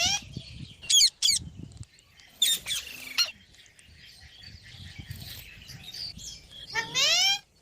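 Pet green parrots screeching in short, harsh, high calls, with a few quick squawks about a second in and again around three seconds, and a longer rising call near the end. The birds are squabbling, one pulling the other's tail.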